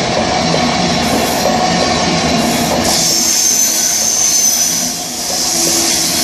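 Class 390 Pendolino electric train on the move, a steady loud rush of wheels on rails. A high-pitched squeal joins in about three seconds in and lasts about two seconds.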